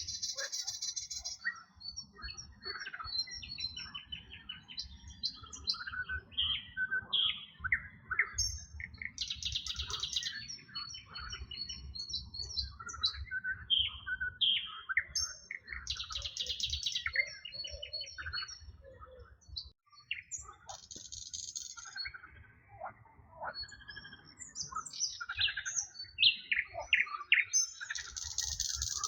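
Several songbirds singing at once: overlapping chirps and short whistles, with fast high trills breaking in every few seconds, over a low rumble.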